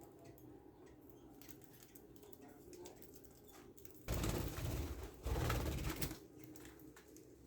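Budgie chicks moving about with faint pattering and scratching, then two loud bursts of close rustling noise about four and five seconds in, each under a second long.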